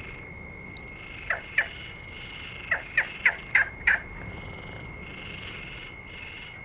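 Wild animal chorus: a steady high-pitched drone, a fast high trill lasting about two seconds near the start, and about seven short calls sliding down in pitch in the first four seconds.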